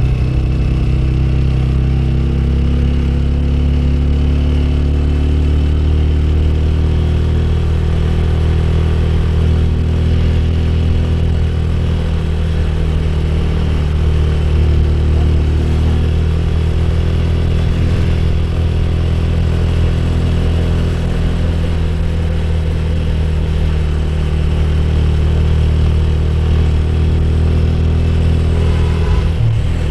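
Motorcycle engine running steadily while riding, with a constant rush of noise over it.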